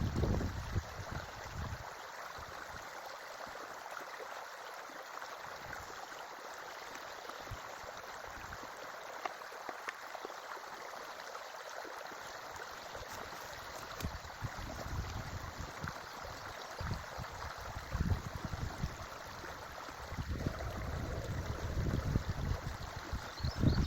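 Creek water flowing steadily. Low rumbling bursts come in over it in the second half.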